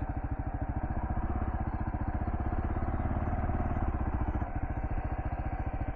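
Kawasaki KLR650's single-cylinder four-stroke engine running at low revs while riding off-road, a steady pulsing note that pulls a little harder through the middle and eases off about four and a half seconds in.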